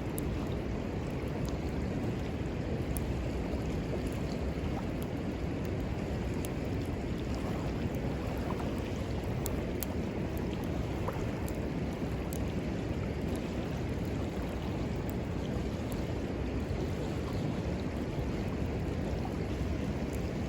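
River water flowing steadily, with a few faint, scattered crackles from a small wood fire.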